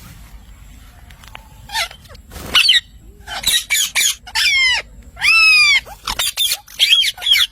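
Pet parrot calling in a string of short, high squawks and screeches starting about two seconds in, with one longer drawn-out call a little past the middle.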